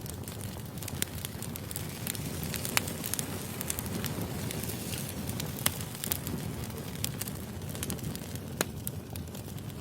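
Wood fire burning, with irregular sharp crackles and pops from the logs over a steady low rush of flame.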